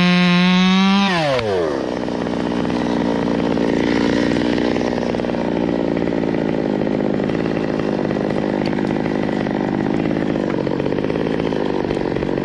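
Stihl 200T top-handle two-stroke chainsaw held at full throttle, then released about a second in. Its pitch drops quickly and it settles into a steady, rough idle.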